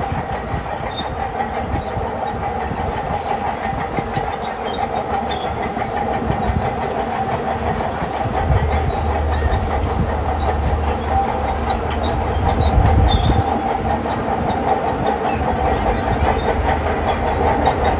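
Shantui crawler bulldozer working: its diesel engine runs steadily while the steel tracks clank and rattle with many small clicks. The low engine rumble swells for a few seconds about halfway through, as under heavier load.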